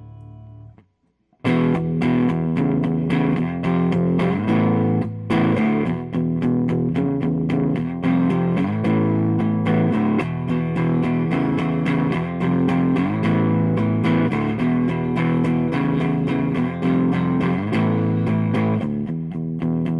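Electric guitar with Lindy Fralin Broadcaster pickups, neck and bridge pickups mixed, played through a Fender Blues DeVille 212 tube combo amp. After a short silence it starts about a second and a half in with a run of quickly picked notes and chords, each attack sharp.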